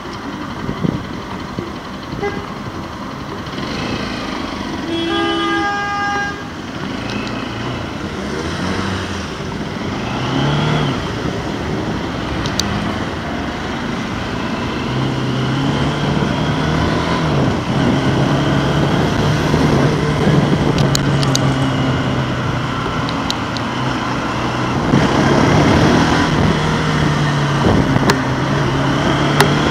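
Bajaj Pulsar 200NS's single-cylinder engine pulls away from a stop, rising in pitch, then runs steadily while riding. A vehicle horn toots once, briefly, about five seconds in.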